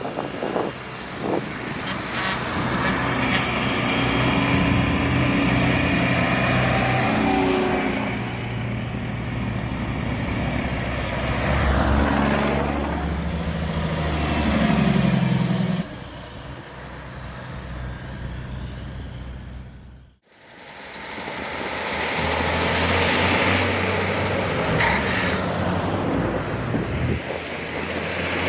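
Large truck engines running and moving past, with a steady engine drone and a falling pitch as one slows about halfway through. The sound cuts off abruptly about two-thirds through, then another truck is heard running.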